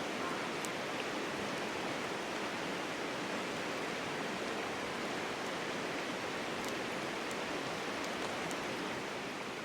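River water flowing, a steady even rush with a few faint ticks over it.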